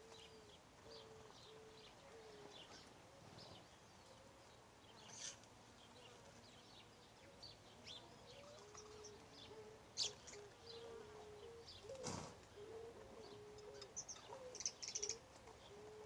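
Wild birds calling: many short, high chirps from several birds over a low call repeated in short notes, about two a second. A single sharp knock about twelve seconds in.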